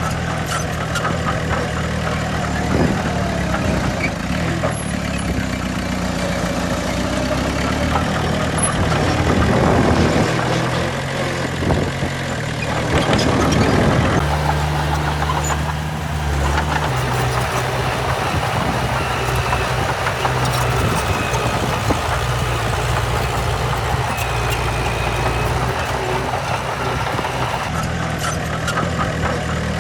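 Heavy diesel engine of earthmoving machinery running steadily, swelling louder twice, about ten and thirteen seconds in.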